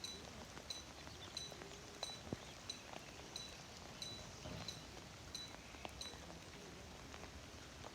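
A small bird chirping faintly, short high chirps about two a second that stop around six seconds in, over low outdoor background noise.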